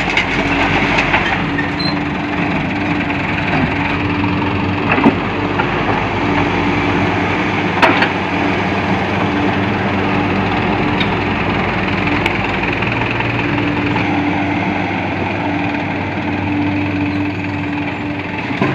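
Diesel engine running steadily, with a couple of sharp knocks about five and eight seconds in.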